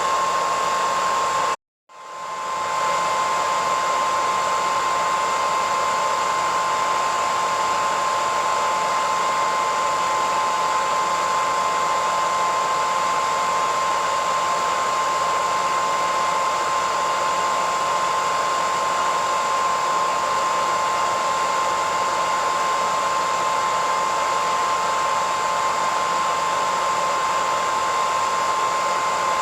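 Hair dryer running steadily: a rush of air with a constant whine from the motor. About two seconds in, the sound cuts out completely for a moment, then fades back up to full level.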